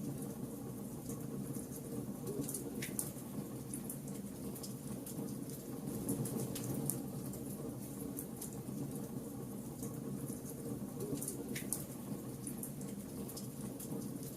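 Wood fire burning: a steady low rush of flames with frequent sharp crackles and pops from the burning wood, two louder snaps about 3 and 11.5 seconds in.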